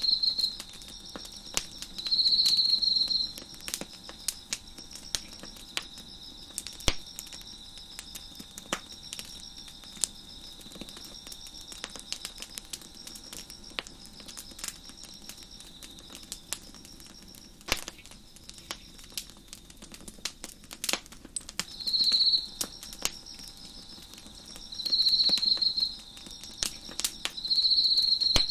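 Wood fire crackling with scattered sharp pops, over a steady chorus of crickets chirping. Loud, high, pulsing insect trills about a second long stand out several times: twice near the start and three times in the last seven seconds.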